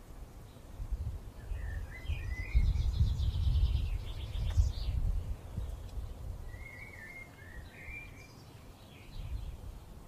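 Small birds chirping in two short bursts of calls with a quick trill between them, over an uneven low rumble that swells in the middle.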